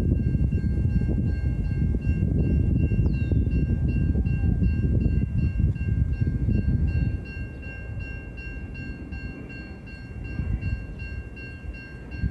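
Metra commuter train approaching the station: a heavy low rumble that eases off suddenly about seven seconds in, with steady high-pitched tones held throughout.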